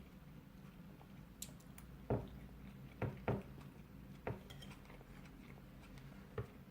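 Eating at a table: a handful of light clinks and knocks of plate and cutlery, about five in all, between quiet chewing, over a faint low steady hum.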